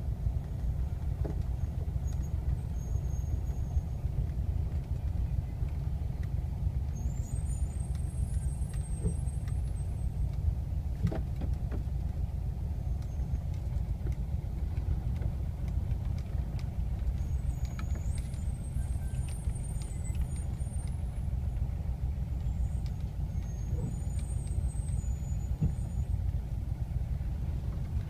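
Steady low rumble of a vintage air-cooled Volkswagen flat-four engine, heard from inside the cabin while the car crawls along at low speed.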